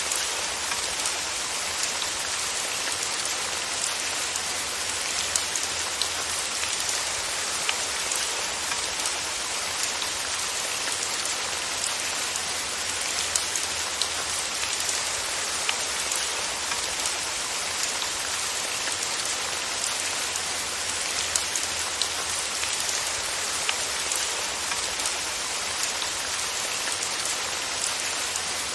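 Steady rain falling on a surface, an even hiss with the small ticks of single drops scattered through it.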